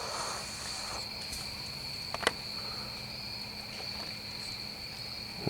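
Insects singing in a steady high-pitched drone, with a single sharp click about two seconds in.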